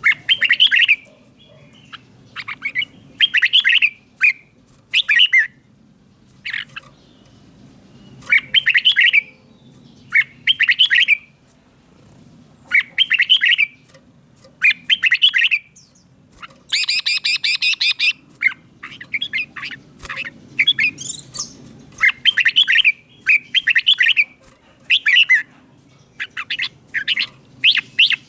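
Red-whiskered bulbul singing short, loud, clear phrases over and over, one every second or two. Near the middle there is a longer, rougher burst.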